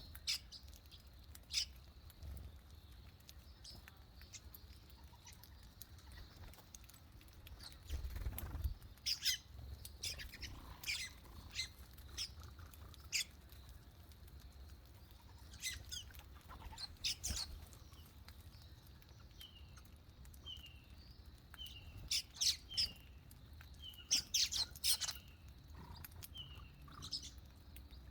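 Small birds chirping: scattered short, sharp high chirps, with a run of short falling notes in the second half, over a low rumble.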